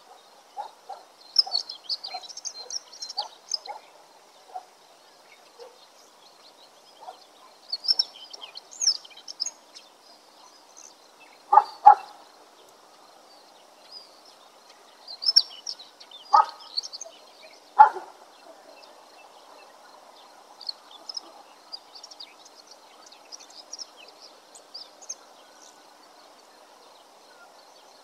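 Songbirds chirping and singing in short high bursts that come and go, over a faint steady background hum. A few louder, sharp calls stand out, a close pair about twelve seconds in and two more a few seconds later.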